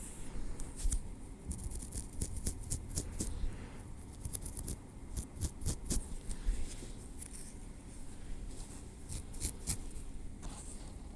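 Metal tweezers working through hair on the scalp: quick clusters of small sharp clicks and light scratches, coming and going irregularly.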